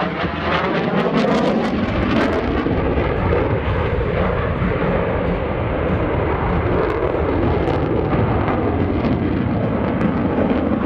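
F-16C Fighting Falcon's General Electric F110 turbofan, loud and continuous as the jet flies its airshow routine, with a phasing sweep through the noise in the first two seconds or so as it goes by.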